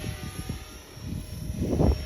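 Electric RC helicopter (Align T-Rex 450 in an EC 145 scale body) flying, its motor and rotor giving a faint steady whine. Gusts of wind buffet the microphone in low rumbling bursts; the loudest comes near the end.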